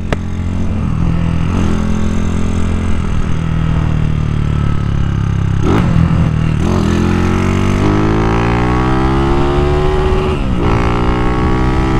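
Single-cylinder engine of a Honda Titan 2000 motorcycle, built up to 240cc, pulling hard under throttle. Its pitch climbs steadily through the gears, drops at an upshift about 6 seconds in and again near the end, then climbs again.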